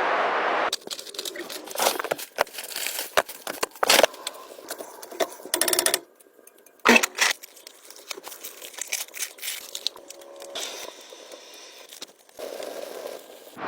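A run of irregular sharp clicks, knocks and crinkling handling noises, with a short steady rushing noise at the start and another starting near the end.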